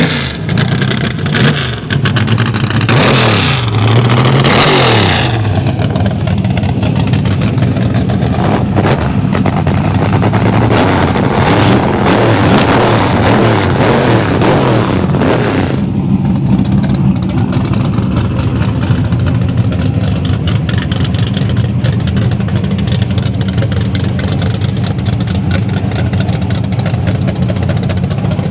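Drag-racing engine running loudly, revving with rising and falling pitch early on. It stays loud and noisy until about halfway through, then drops to a steadier, lower running sound.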